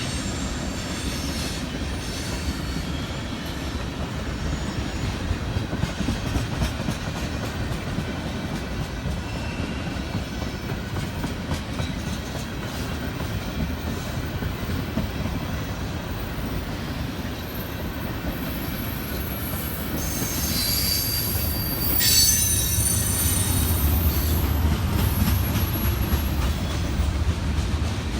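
Freight train cars rolling past on the rails with a steady low rumble. From about two-thirds of the way through it grows louder, and the wheels squeal against the rails in thin high tones.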